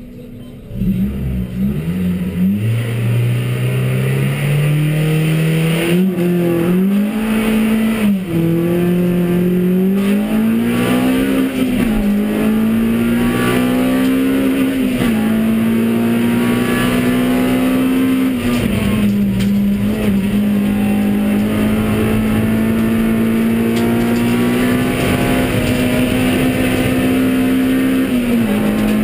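Honda Civic Type R EP3's 2.0-litre K20 four-cylinder, heard from inside the cabin, launching hard from a standstill about a second in and accelerating through the gears. The engine pitch climbs, drops at each upshift, then holds high and fairly steady through the later part, with a brief dip near the end.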